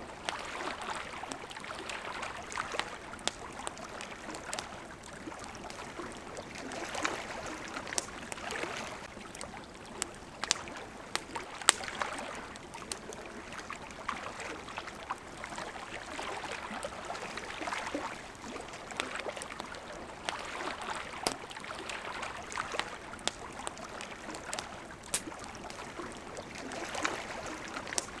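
Small waves lapping at a shore, washing in and out in soft swells every few seconds, with a campfire crackling and popping throughout; one sharper pop stands out a little before the middle.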